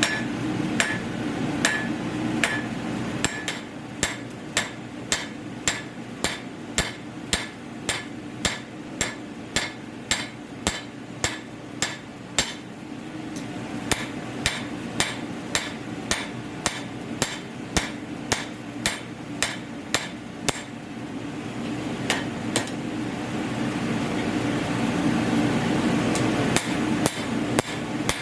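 Hand hammer striking hot metal on an anvil at about two blows a second, blacksmith forging at a coal forge. Under the blows runs a steady drone from the forge's blower and exhaust, which swells while the hammering pauses for a few seconds near three quarters of the way through.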